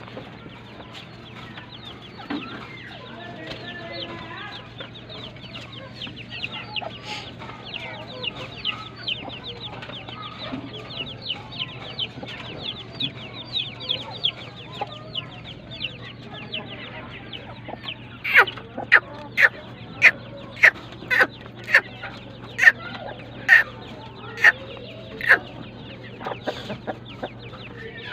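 Grey francolin (teetar) calling: a run of quick, high chirps, then about ten loud separate calls a little under a second apart, over a steady low hum.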